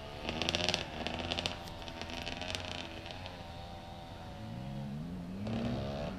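Dirt bike engines running with a raspy crackle in the first half. The pitch wavers and then climbs in a rising rev near the end.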